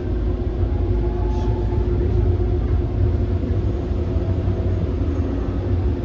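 Docklands Light Railway B92-stock train running between stations, heard from inside the carriage: a steady low rumble of wheels and running gear with a constant whine over it.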